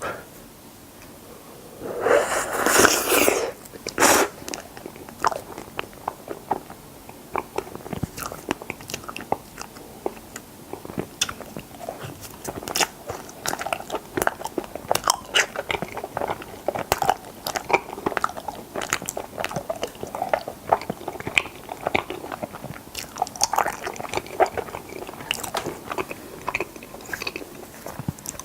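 Close-miked biting and chewing of strawberry mochi ice cream: a loud bite about two seconds in and another just after, then a steady run of short, moist chewing clicks.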